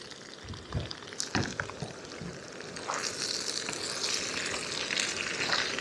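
Fried potatoes and sausage sizzling in oil in a frying pan, the sizzle growing a little louder about three seconds in, with a couple of faint clicks near the start.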